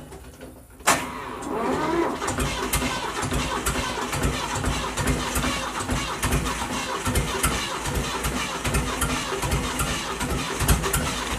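Old tractor engine starting from cold: it catches abruptly about a second in, then runs with a steady low thumping beat.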